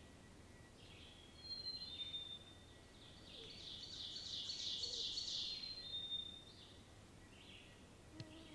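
Bird calls: a few short, high whistled notes, then a rapid, high chattering trill lasting about three seconds.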